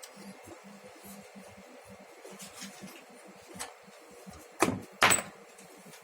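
Sharp clicks and knocks of a coaxial cable connector being handled and unscrewed to disconnect the dummy load from the amplifier, the two loudest clicks a half second apart near the end.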